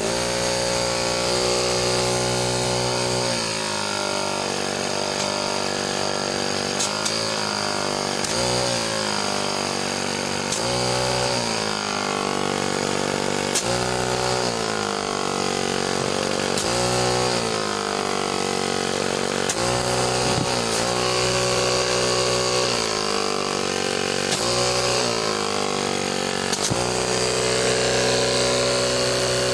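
Car air compressor running on its electric motor, with a steady hum whose pitch sags and recovers every second or two, as if the load is changing.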